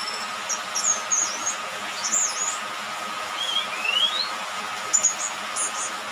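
Young orange-headed thrush, just past its spotted juvenile plumage and still learning its song, singing short, scratchy high chirps broken by a few rising whistles. A steady hiss runs behind it.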